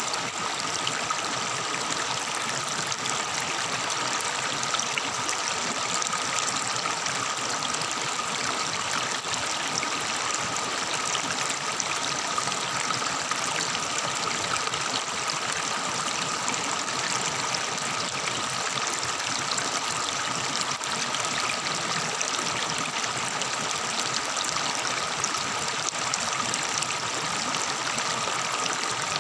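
Forest river water babbling and trickling over rocks, steady and unbroken, with a faint high steady tone running above it.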